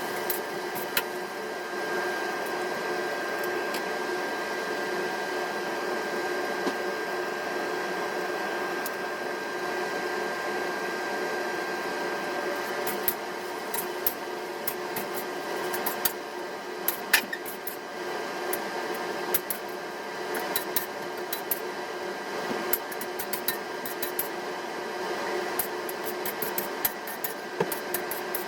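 A steady mechanical hum, like a small motor running, with a higher whine for roughly the first half and light clicks and taps scattered through the second half.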